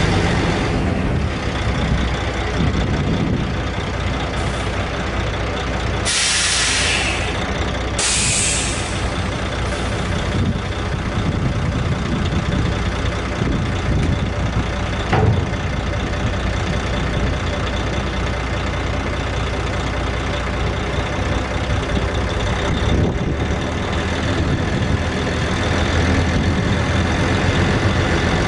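Heavy diesel engine of a 1998 International 2674 dump truck idling steadily, with two short hisses of air from the truck's air brake system about six and eight seconds in, and a single sharp click about halfway through.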